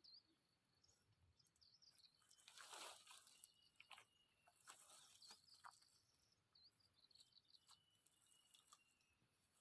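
Near silence: faint rustling and crunching of dry vegetation being handled, loudest about three seconds in, with a few faint high bird chirps.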